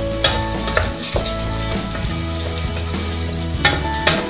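Risotto rice toasting in hot oil with softened onions in a stainless steel pot, sizzling steadily, while a wooden spoon scrapes and stirs through the grains in several distinct strokes.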